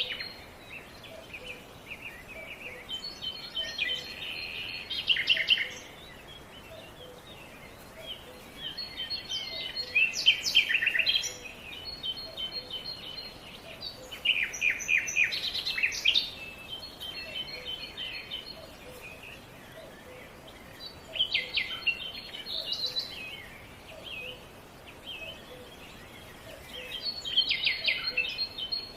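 Songbird singing: bursts of quick chirps ending in fast trills, each two to three seconds long, repeating about every five to six seconds over a faint steady background hiss.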